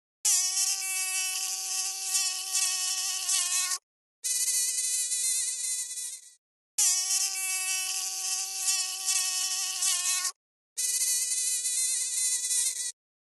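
Mosquito wing whine: four separate buzzing passes, each a few seconds long and cut off by a short silence, alternating between a lower and a slightly higher pitch, with the pitch wavering a little within each pass.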